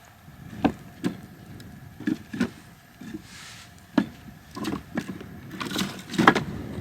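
Pieces of firewood knocking together as they are handled and set down: a string of about eight sharp wooden knocks, coming closer together and loudest near the end.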